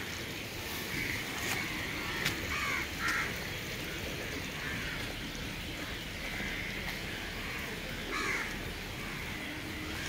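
Birds giving short calls, several in quick succession in the first three seconds and a few more later, over a steady low background rumble.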